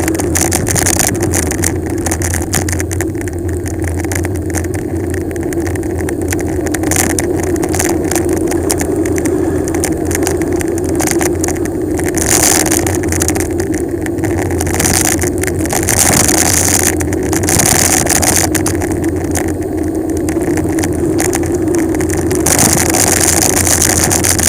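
Wind rushing over an action camera's microphone on a fast bicycle descent, swelling and dropping in irregular gusts over a steady low road rumble from the tyres.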